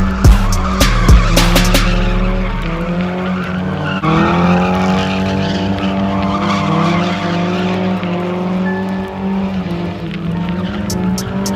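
A car doing a burnout or donuts: its tyres squeal against the pavement over an engine held at high revs. A few sharp cracks sound in the first couple of seconds.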